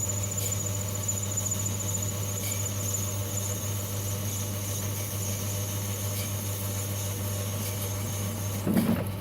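A metal lathe running steadily, with a twist drill ground as a lathe tool cutting aluminium, and a thin high-pitched squeal over the machine's low hum. A few faint clicks sound along the way, and near the end the squeal stops with a brief louder scrape.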